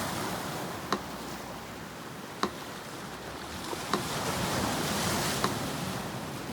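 Sea surf washing steadily, with a wave swelling up past the middle. Over it a metronome ticks slowly and evenly, once every second and a half.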